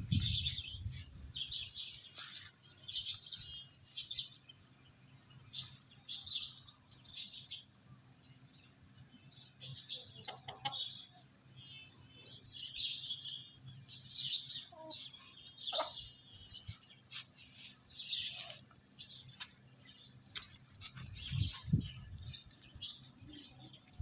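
Birds chirping in short, irregular bursts throughout, with a few lower calls now and then.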